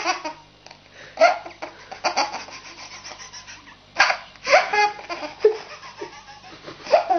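A baby laughing in short bursts with quiet gaps between them, the loudest burst about four seconds in.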